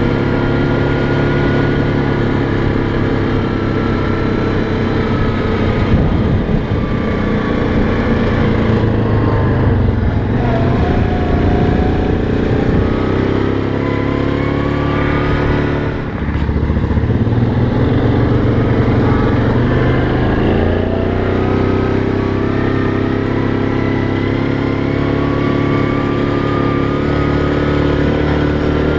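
ATV engine running steadily on a trail ride, its pitch easing off and then climbing again twice as the rider lets off and opens up the throttle, with a brief drop about sixteen seconds in.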